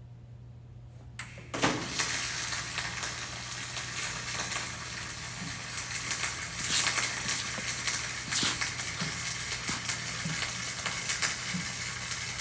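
Flux-core wire-feed welding arc striking about a second and a half in, then crackling steadily with frequent sharp pops over a low hum.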